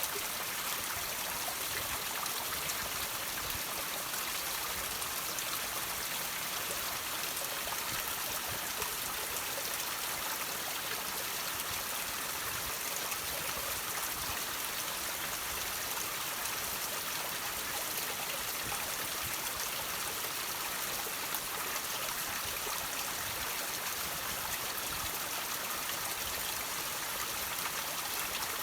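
Water trickling and dripping off rocks: a steady splashing hiss thick with fine drips.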